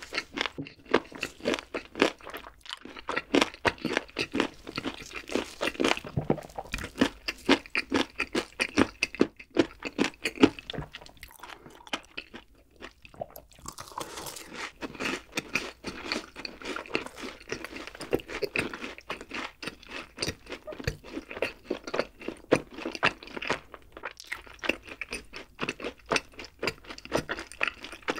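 Close-miked eating: rapid, crunchy chewing of fried food. After a short lull about halfway through, there is a bite into a fried cheese ball, followed by more crunchy chewing.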